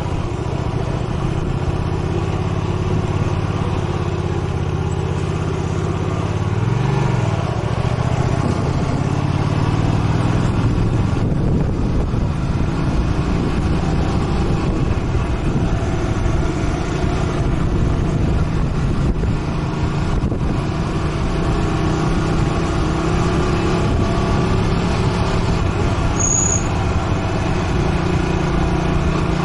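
Motorcycle engine running steadily on the move, under a continuous haze of riding noise. About seven seconds in, its pitch briefly rises and falls once.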